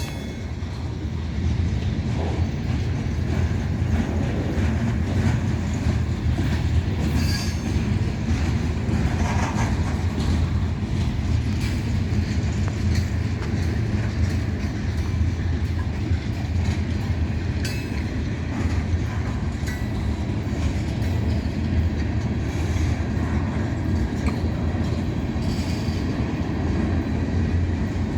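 Cars of a passing freight train rolling by on the rails: a steady low rumble of wheels on track, with a few brief high wheel squeals at intervals.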